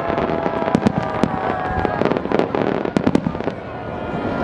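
Fireworks going off: a rapid, irregular string of sharp cracks and bangs, several a second.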